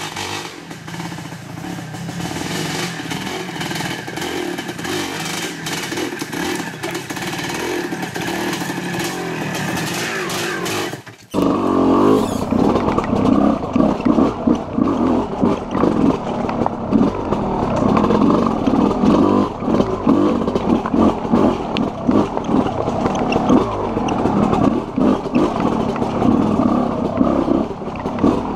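Two-stroke enduro motorcycle engine running as the bike is ridden up a rocky trail. About eleven seconds in there is a sudden cut, after which the engine is heard close from a helmet camera: louder and choppier, with the throttle opening and closing over the rocks.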